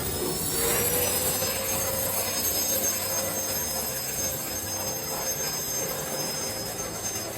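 Cordless handheld turbo ducted-fan blower running in its boost 'storm' mode, blowing water off a car wheel. It is a steady rush of air with a high whine that rises in pitch over the first second or so, then holds.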